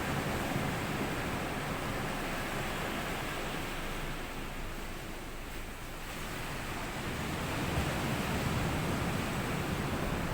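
Small sea waves washing up on a sandy beach, a steady rush of surf that eases a little about halfway through and builds again.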